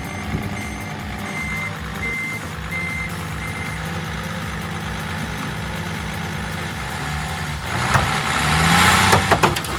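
Heavy vehicle engine running steadily while a back-up alarm beeps about five times in the first few seconds. Near the end the engine revs up under load, with a loud rush of noise.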